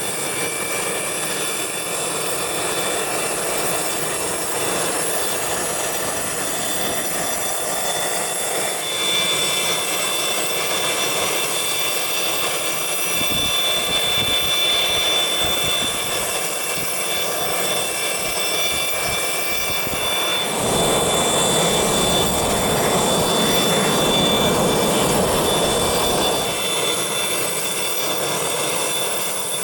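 Private jet's turbofan engines running with a steady high whine over a rushing noise. The sound gets louder about two-thirds of the way through, then eases near the end.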